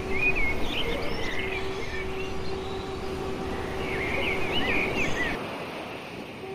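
Small birds chirping rapidly over a steady outdoor hum, with a held low note underneath. The birdsong and the low rumble stop abruptly about five seconds in.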